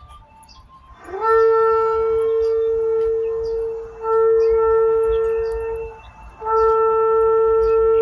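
Long blasts of one steady, horn-like note at the same pitch: the first starts about a second in, there is a brief dip near four seconds, a break near six seconds, then the note sounds again.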